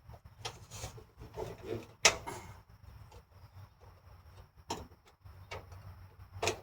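Workshop handling noises: scattered clicks and knocks of tools and metal parts being set down and positioned, with one sharp knock about two seconds in, over a steady low hum.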